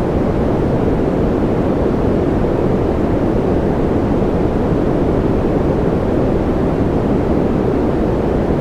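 Steady, unchanging white noise of the kind played for sleep, with most of its weight in the low and middle pitches, so it sounds deep rather than hissy.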